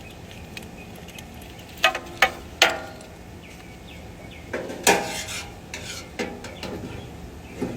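Metal parts clinking and knocking several times, a few sharp strokes with a short ring, as a fuel-level sender and its gasket are worked into place on a fuel tank.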